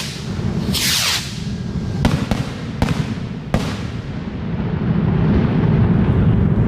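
Fireworks going off: a crackling hiss about a second in, then four sharp bangs between two and four seconds in. A steady low rumble runs underneath and grows louder near the end.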